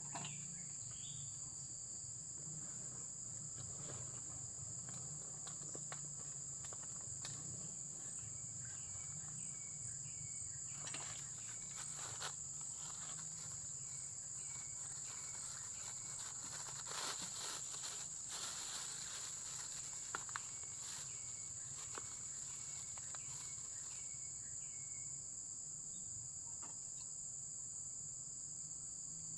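Insects chirring in a steady, continuous high trill, with runs of a lower, short repeated chirp coming and going. A few scattered clicks and light knocks fall mostly around the middle.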